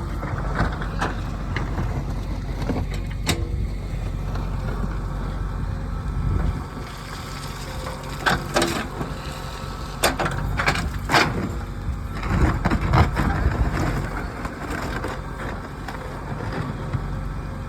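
JCB 3DX backhoe loader's diesel engine running steadily, with several sharp knocks and a rough scraping stretch from the bucket working soil.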